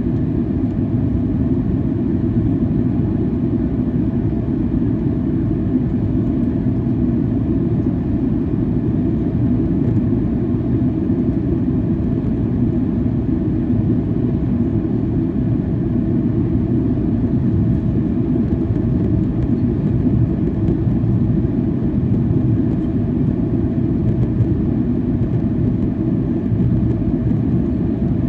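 Steady cabin noise of a Boeing 737-800 in flight: a constant low rumble of its CFM56 engines and the airflow over the fuselage, with no change in level.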